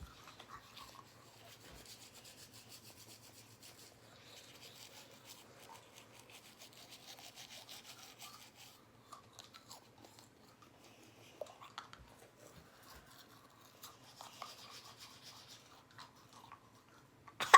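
Toothbrush scrubbing teeth: faint, quick back-and-forth brushing strokes, with a short pause partway through.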